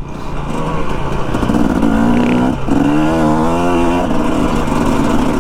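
Dirt bike engine running under way, its pitch wavering as the throttle changes, with a brief dip about two and a half seconds in, over low wind rumble on the microphone.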